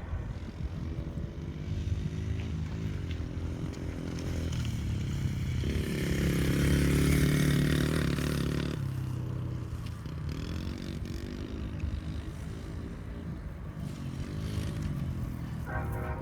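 Dirt bike being ridden, its motor rising and falling in pitch as it speeds up and slows, loudest about six to nine seconds in as it comes closest.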